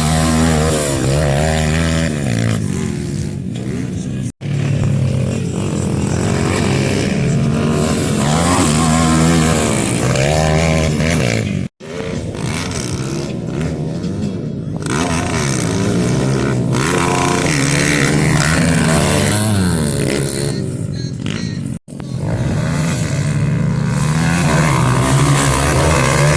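Pit bike engines revving hard, their pitch climbing and dropping again and again as they accelerate and shift, with more than one engine heard at once. The sound cuts off abruptly three times, about 4, 12 and 22 seconds in.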